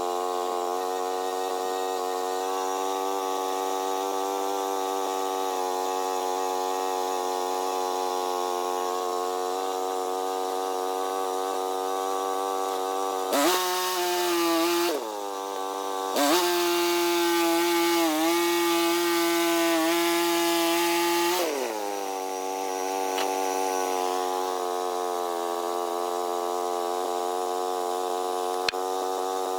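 Woodland Mills portable band sawmill's gas engine idling steadily, then revving up about halfway through. It dips briefly and holds at high speed with the hiss of the band blade running for about eight seconds, then drops back to idle. A single sharp click comes near the end.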